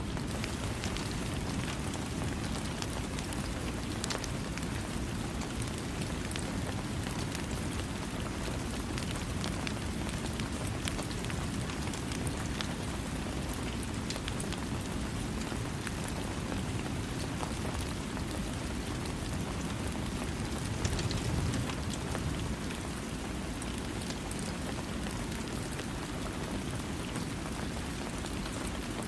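Steady heavy rain falling on a surface, a dense hiss with a full low body and scattered individual drop ticks. It swells briefly louder and deeper about two-thirds of the way through.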